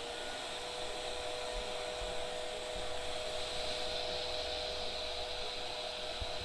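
Handheld hair dryer running steadily at full speed, its airflow hiss overlaid with a constant motor whine.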